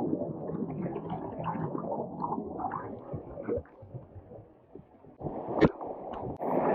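Muffled gurgling and sloshing of canyon water, with scattered small knocks, a quieter spell near the middle and one sharp knock about five and a half seconds in.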